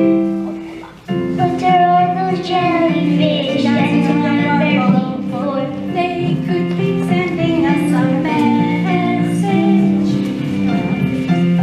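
Children singing a passage from a school opera over a recorded instrumental accompaniment. The music dips briefly about a second in, then carries on.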